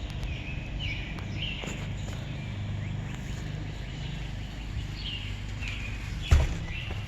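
Birds chirping in short bursts over a steady low background hum, with a single sharp thump about six seconds in.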